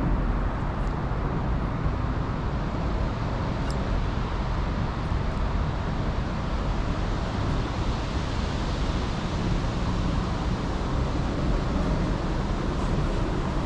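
Wind blowing across the microphone: a steady, even rushing noise, heaviest in the deep end, with no breaks.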